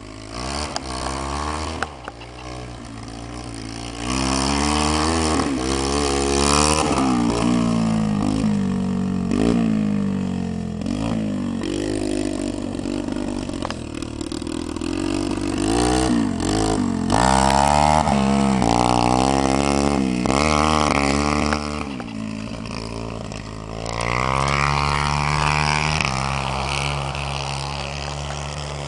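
Dirt bike engine being ridden hard, its pitch climbing and dropping back over and over as the throttle is opened and closed.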